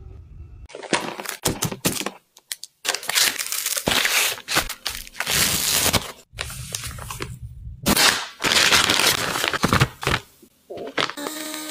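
Plastic packaging crinkling and tearing in a run of loud, short handling bursts, broken off by several abrupt cuts.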